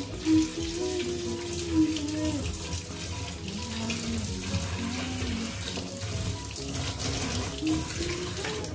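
Kitchen tap running into a steel pot of boiled potato pieces in a stainless steel sink, with hands stirring and rinsing them in the cold water to cool them.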